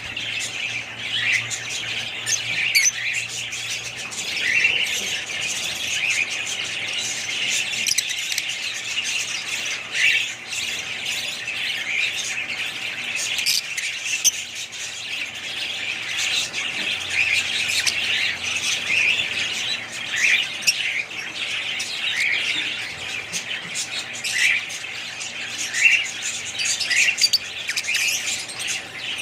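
A flock of small birds chattering, with many overlapping chirps and squawks that never let up.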